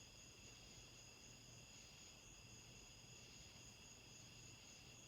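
Very faint, steady hum of a Hampton Bay Cameron II ceiling fan motor running on low speed. A steady high-pitched whine sits above it.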